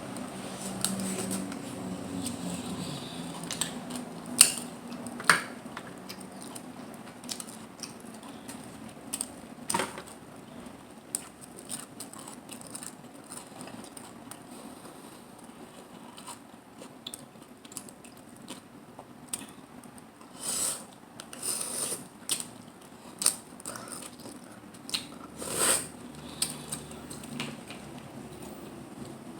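Close-miked eating of mussels and clams: irregular sharp clicks and clinks of shells and utensils with softer chewing sounds between them, the loudest clacks coming about four seconds in and in a cluster near the end.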